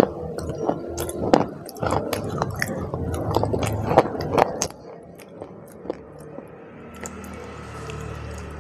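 A person biting and chewing hard, brittle brown slabs close to the microphone. Many sharp, crisp crunches come through the first four and a half seconds or so, then softer, sparser chewing.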